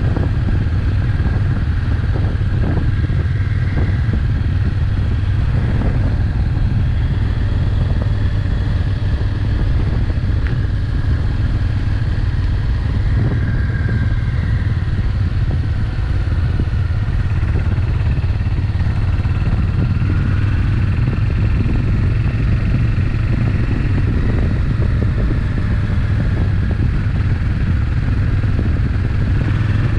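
Suzuki Intruder VS800's V-twin engine running steadily as the motorcycle cruises at low speed.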